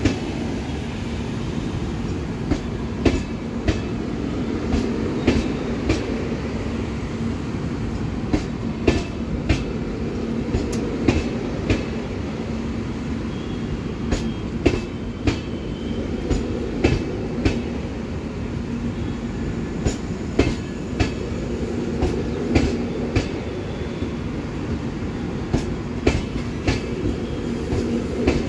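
Express train's passenger coaches rolling past on arrival, their wheels clicking sharply and unevenly over rail joints above a steady rumble and a faint steady hum.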